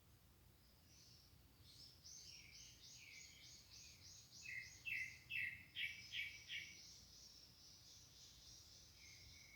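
Eurasian nuthatch calling: a fast series of repeated high piping notes, about five a second, with lower notes joining midway, then trailing off into a thin, steady high trill.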